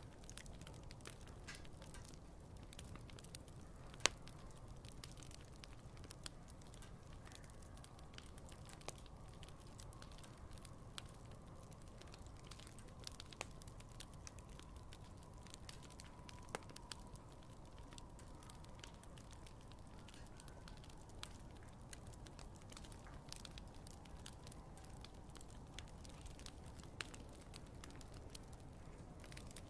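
Wood campfire burning with soft, irregular crackles and small pops, one sharper pop about four seconds in, over a low steady rumble of the flames. A faint thin whistling tone comes and goes through the middle.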